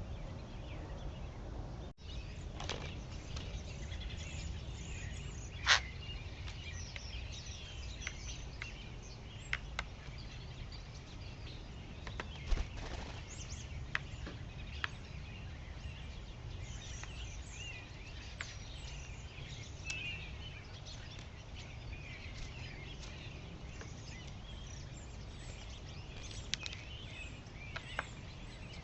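Small birds chirping and twittering on and off over a steady low outdoor rumble, with a few sharp clicks and taps, the loudest about six seconds in.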